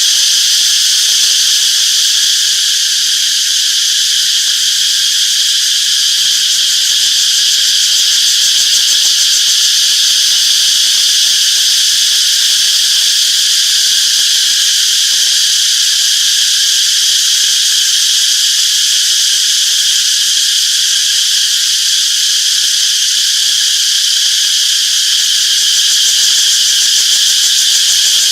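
A chorus of cicadas buzzing steadily and without a break: a dense, high-pitched shrill of several overlapping tones.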